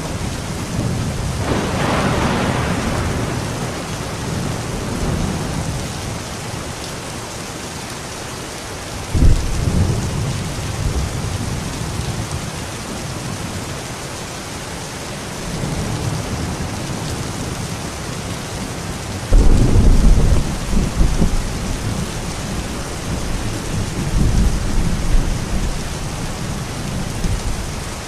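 Steady rain with several rolls of thunder: a sudden clap about nine seconds in, and the loudest, longest rumble starting about two-thirds of the way through.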